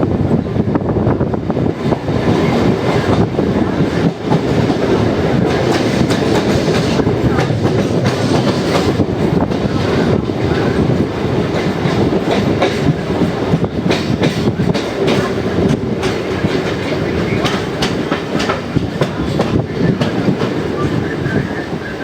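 Car-carrier freight train running on the rails: a steady rumble of wheels with clickety-clack knocks from the rail joints and rattling of the wagons.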